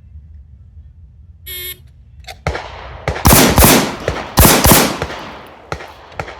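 A shot timer's start beep, then a string of loud gunshots in two quick pairs about a second apart, each ringing out afterwards.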